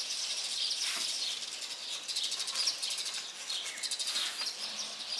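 Weaver birds chattering: many short, high chirps overlapping continuously, as from a busy nesting group.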